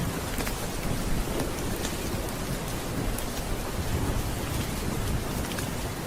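Steady rain with a low rumble of thunder swelling in the middle, and scattered short crackles from a fireplace.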